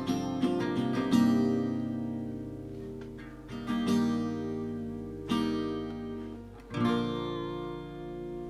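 Acoustic guitar strumming the song's closing chords, about five strums each left to ring out and fade, with no singing.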